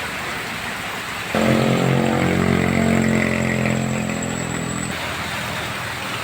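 Steady hiss of heavy rain; about a second in, a passing vehicle's engine comes in suddenly and runs loud and steady for about three and a half seconds, then fades.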